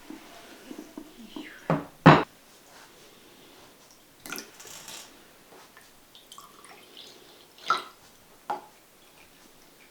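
Kitchen work: a few sharp knocks and clinks of kitchenware, the loudest about two seconds in, with a short splash of running water about four seconds in.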